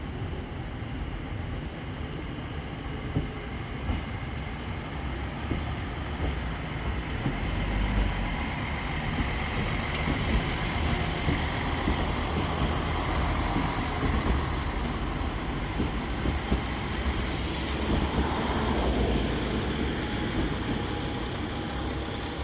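Passenger train running past on the rails, a steady rumble of wheels and cars that swells after a few seconds, with thin high wheel squeals near the end.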